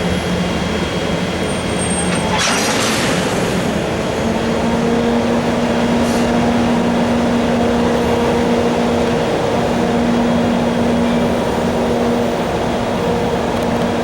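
Freight train hauled by two EF64 electric locomotives rolling past with a steady rumble. There is a short loud rush of noise about two and a half seconds in, and a steady hum sets in about four seconds in.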